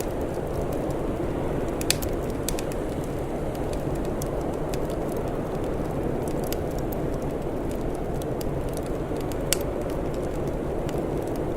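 Wood fire crackling, with scattered sharp pops over a steady low rumble. Two louder pops stand out, about two seconds in and again near the end.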